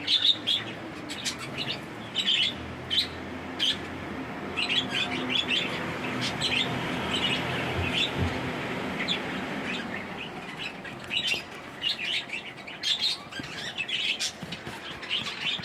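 Pet lovebirds in a cage chirping, many short, rapid high calls in quick runs. A steady rushing noise sits under them from about four to ten seconds in, while the chirping thins.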